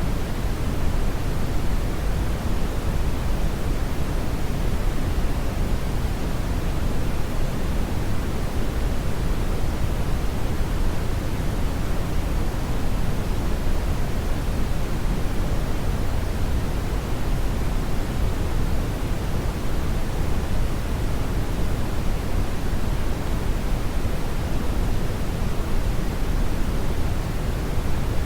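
Steady brown noise: a deep, even rushing hiss with most of its weight in the bass and little treble, unchanging throughout.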